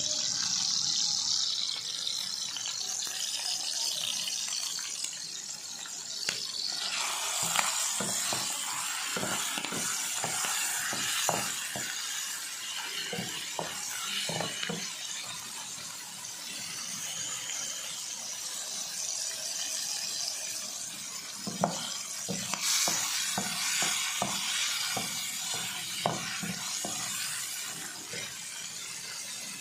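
Pieces of liver sizzling steadily in hot oil in a non-stick frying pan. A spatula scrapes and knocks against the pan as the pieces are stirred, in two runs: one about a quarter of the way in and another past the middle.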